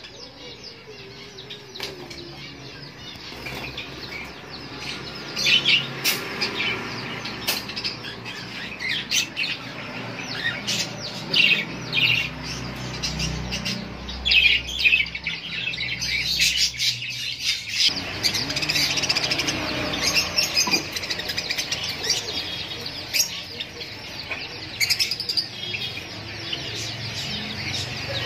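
A roomful of caged pigeons and lovebirds: a dense, constant twittering of chirps with repeated sharp wing flaps.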